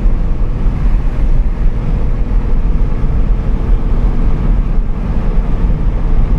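Single-turbo Coyote 5.0 V8 of a 2015 Mustang running at a steady cruise, heard from inside the cabin mixed with road and wind noise.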